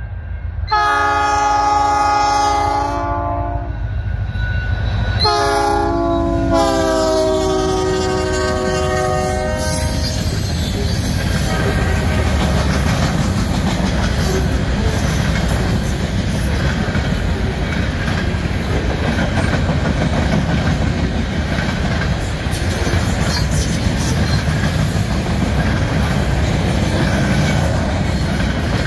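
EMD SD40-2 diesel locomotives sound their air horn in two long blasts, the second longer, over the first ten seconds. After that comes the steady rumble and clatter of loaded centre-beam flat cars rolling past on the rails.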